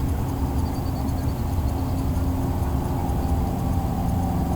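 An engine running steadily at one pitch.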